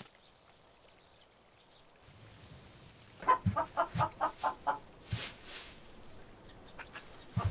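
A chicken clucking: a quick run of about seven short clucks starting about three seconds in, with a few dull knocks among them.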